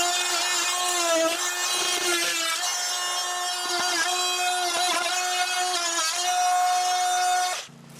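Oscillating multi-tool sawing through wood, a steady high whine whose pitch dips briefly each time the blade bites under load. It stops suddenly near the end.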